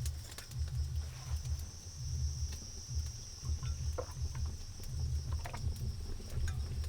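A steady, high-pitched insect trill running on, over an uneven low rumble and a few scattered soft clicks.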